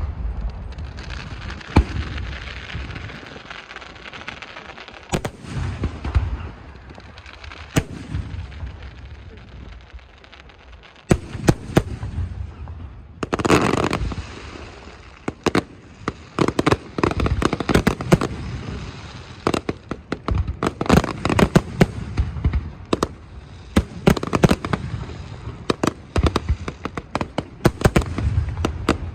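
Aerial fireworks display: shells bursting with deep booms and sharp bangs, turning into dense, rapid crackling volleys from about eleven seconds in.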